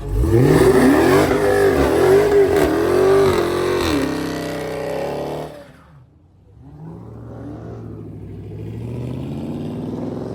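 Car engine revved hard, the revs jumping up at once and sweeping up and down for about five seconds before dropping away; a second, quieter rev builds again near the end.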